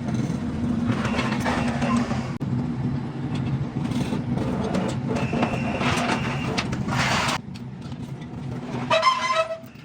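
An engine running steadily, with scattered knocks over it. The engine sound drops away about seven seconds in, and a short call, like a voice, comes near the end.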